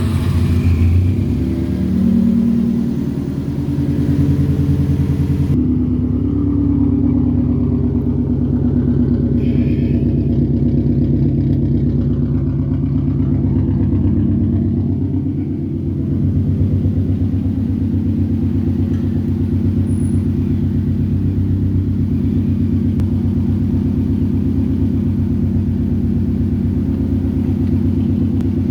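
Subaru GC8 Impreza STi's turbocharged flat-four engine running steadily. The pitch shifts a little in the first few seconds, then it holds an even note.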